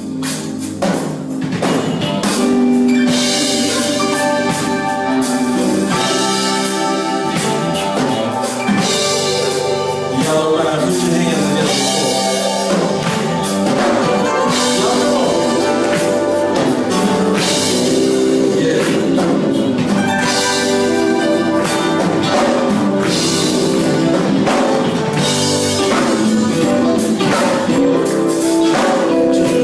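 Live band music with guitar, drums and tambourine, playing steadily at full volume.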